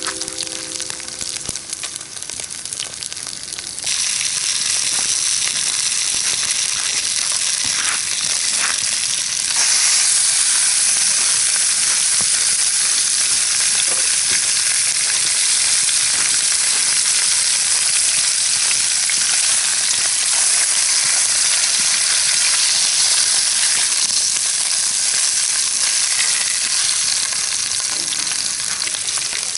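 Food sizzling and frying in a hot pan, a steady crackling hiss that gets louder about four seconds in and again about ten seconds in.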